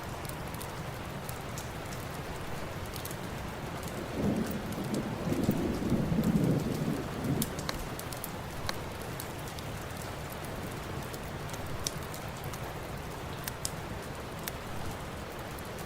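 Steady heavy rain, with a low rumble of thunder swelling about four seconds in and fading after about three seconds. Scattered sharp crackles and pops from a fireplace sound over the rain.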